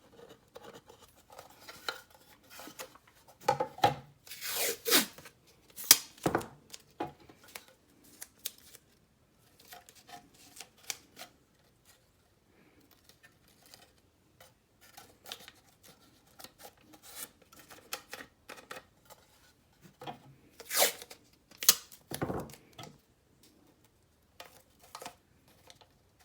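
Adhesive tape being pulled off the roll, torn and pressed onto a plastic airsoft magazine: several short ripping, crackling pulls with quieter handling between.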